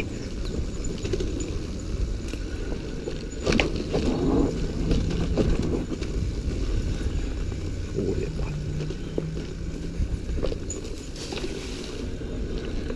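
Dirt bike engine running, muffled and low, with a scattering of knocks and rattles.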